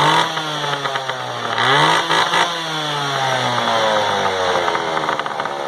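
Echo CS-330 EVL two-stroke chainsaw running after sitting unused for a long time. It is blipped up once about two seconds in, then its pitch falls back and it settles at idle.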